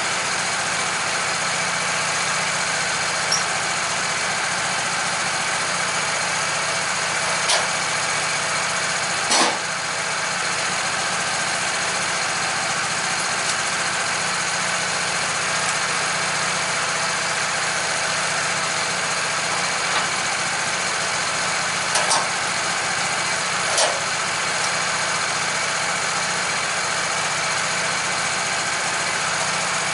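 Sawmill engine running steadily, with a few short knocks or clanks scattered through.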